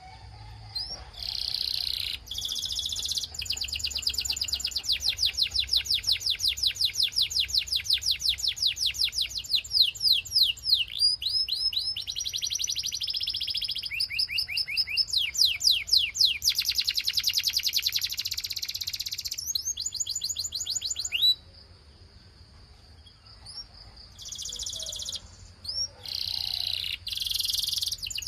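Canary singing a long song of fast rolling trills, each a rapid run of repeated high notes, switching from one trill to the next every few seconds. The song stops for about two seconds some three-quarters of the way through, then resumes in short bursts.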